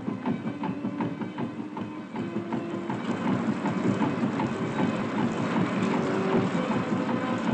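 Railway carriages rolling slowly through a carriage-washing plant: a regular clatter of about four strokes a second, then, from about three seconds in, a louder wash of spraying water and brushes with short squealing tones.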